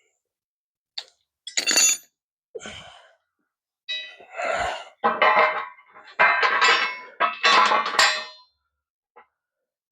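Metal parts and tools clanking: a series of about six sharp metal knocks and clinks with a short ring after each, bunched together in the middle of the stretch.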